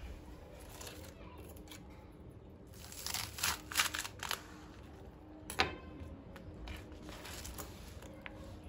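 Light clicks and short rustles of things being handled, with a cluster of quick clicks about three seconds in and a single sharp click a couple of seconds later.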